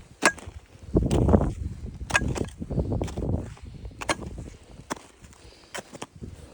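A hiker walking on snow: crunching footsteps with sharp clicks about every second.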